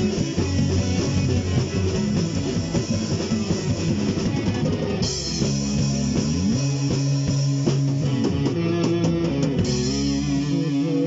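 Instrumental rock music from a band: electric guitar with bass and drum kit, no singing; the texture changes about five seconds in.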